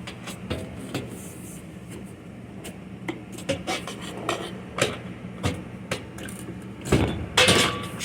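Hands working at the base of a dishwasher: scattered light clicks, knocks and rubs of tools and parts, with a louder scraping clatter about seven seconds in, over a faint steady low hum.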